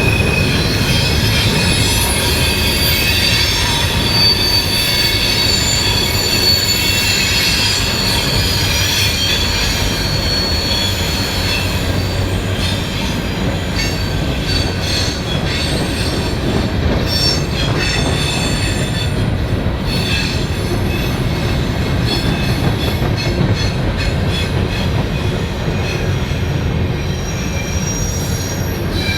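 Train rolling past with its steel wheels squealing in several high, shifting tones over a steady rumble.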